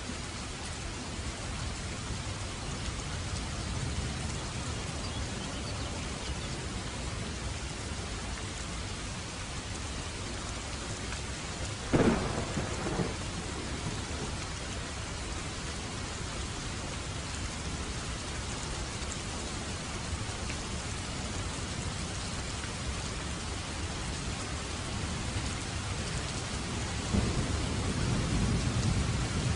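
Steady heavy rain falling, with a sharp thunderclap about twelve seconds in that trails off in a rumble, and rolling thunder building again near the end.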